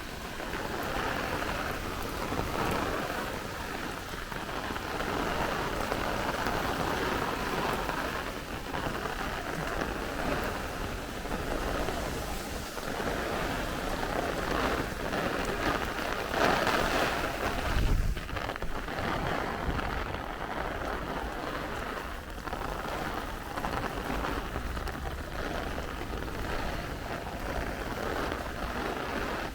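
Heavy rain pouring steadily, with gusty wind rumbling on the microphone; a stronger gust swells about sixteen to eighteen seconds in.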